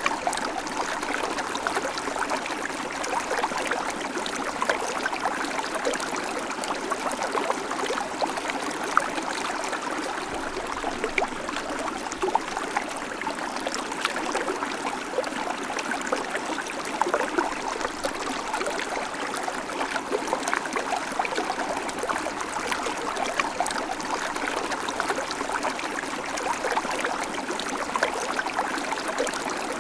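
Babbling creek: shallow water running steadily over stones, with a constant trickling and splashing.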